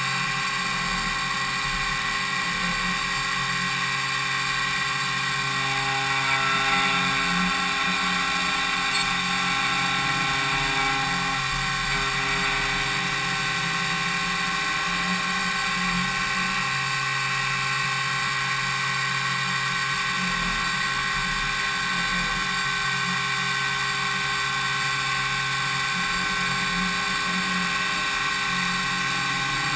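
DMU 70 V five-axis CNC machining centre milling impeller blades: a steady high-speed spindle whine made of many held tones, swelling slightly about seven seconds in.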